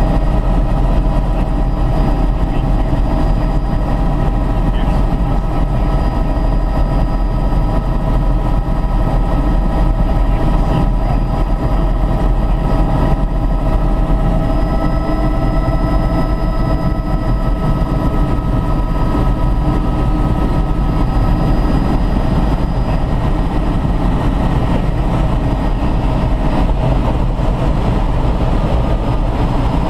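Helicopter in flight: a loud, steady engine and rotor drone with a steady whine over it, unchanging throughout.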